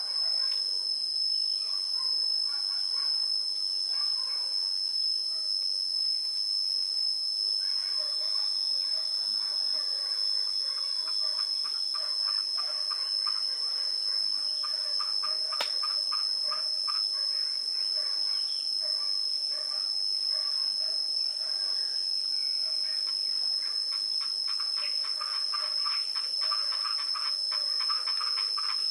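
Insect chorus: a steady high-pitched drone throughout, over a rapid pulsing trill that grows denser near the end. A single sharp click comes about halfway through.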